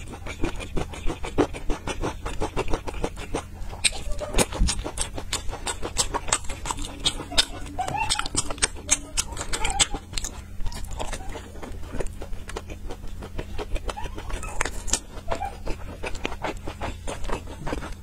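Close-up eating sounds of a person chewing soft steamed buns: rapid wet mouth clicks and lip smacks, over a steady low hum.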